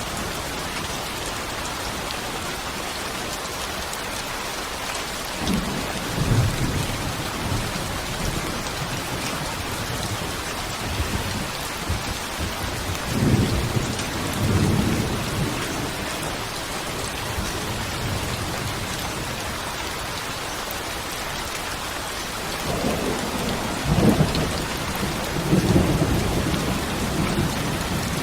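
Steady heavy rain falling, with rolls of low thunder rumbling in three times, about 6, 14 and 24 seconds in, the last the loudest.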